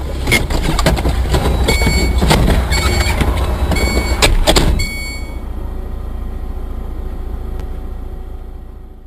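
Car road and engine rumble heard from inside a moving vehicle. Over the first half come many sharp knocks and rattles and a few short high-pitched tones. The rumble then settles and fades out near the end.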